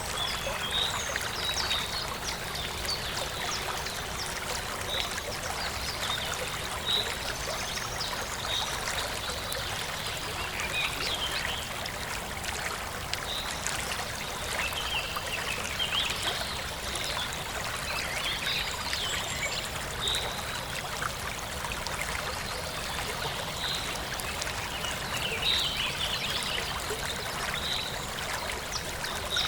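Forest stream flowing and trickling steadily, with small birds chirping now and then.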